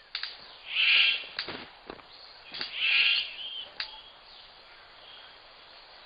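Superb bird of paradise giving two harsh, rasping calls about two seconds apart, each about half a second long, with a few sharp clicks around them.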